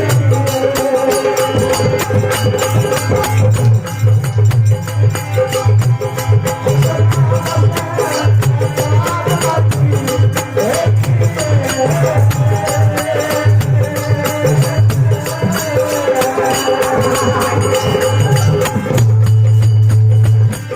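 Rajasthani folk bhajan music: a dholak drum keeps a steady rhythm under a wavering melody line.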